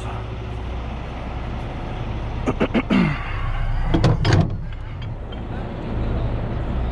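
Truck engine idling steadily, with two short clusters of clunks and a brief falling squeak, a couple of seconds in and again about four seconds in.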